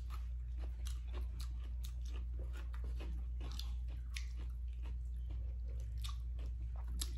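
Close-miked chewing and mouth sounds of people eating, with many small irregular clicks and smacks over a steady low hum.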